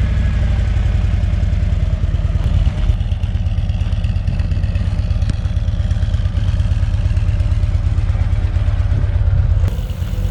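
Motorcycle engine running close by, a loud, steady low throb of rapid firing pulses, shortly after being started.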